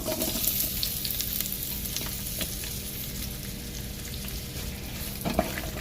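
Onions sizzling as they fry in hot peanut oil in a pot, a steady hiss with a few faint crackles.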